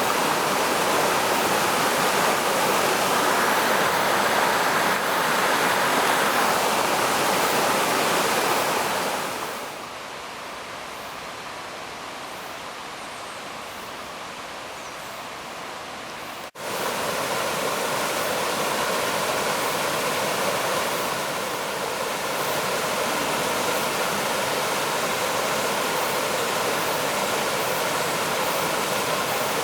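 Waterfall: water pouring down in a steady rushing noise. About ten seconds in it turns quieter for several seconds, then after an abrupt cut comes back at full strength.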